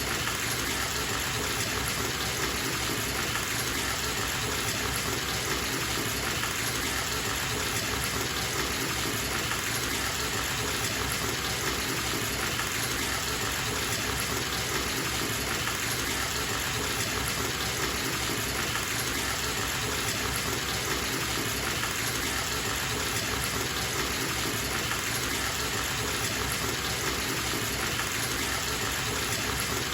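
Bathtub tap running into a filling tub: a steady, unbroken gush of water.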